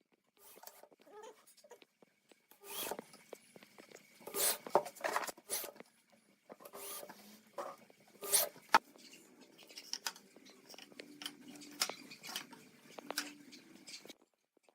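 Irregular taps, clicks and knocks of hard objects being handled and set down, with a few louder knocks; the sound cuts off abruptly shortly before the end.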